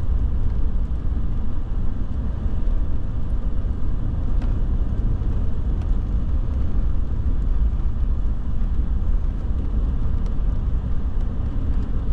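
Steady low rumble of a pickup truck driving on a snowy road, heard from inside the cab: engine and tyre noise, with a few faint ticks.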